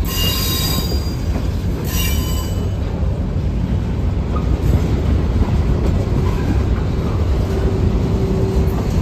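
Covered hopper cars of a freight train rolling past with a steady rumble of wheels on rails. Two brief high wheel squeals come right at the start and again about two seconds in.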